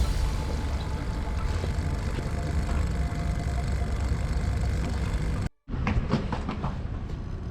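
A steady low mechanical rumble with a hiss, broken by a brief dropout about five and a half seconds in, after which it carries on with a few short clicks and knocks.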